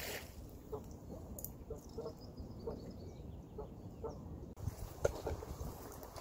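A bird's short calls repeated irregularly, two or three a second, over a faint outdoor background.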